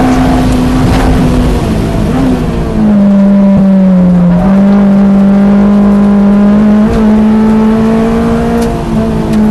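Honda S2000's stock F22C inline-four engine running hard under load at track speed. Its note dips briefly about two seconds in, then holds and slowly climbs.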